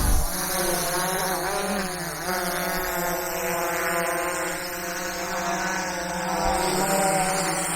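PowerEgg X quadcopter drone in flight, its motors and propellers giving a steady buzzing whine. The pitch dips and rises briefly between about one and two seconds in as the motors change speed.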